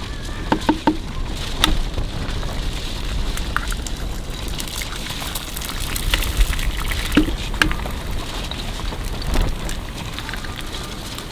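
Eggs frying in hot oil in a pan: a steady sizzle with scattered pops and crackles.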